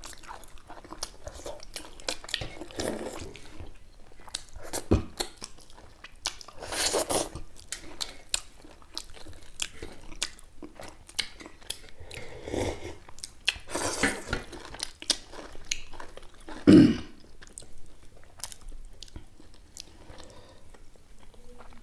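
Close-up mouth sounds of two people eating finger-millet dhido and chicken curry: wet chewing with many sharp lip smacks and clicks. Now and then a longer, louder mouth noise stands out, the loudest about seventeen seconds in.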